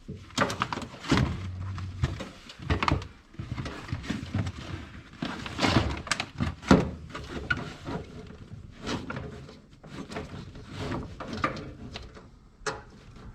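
Irregular knocks, clunks and rustling of things being handled and moved about in a car trunk, the loudest clunks about six to seven seconds in.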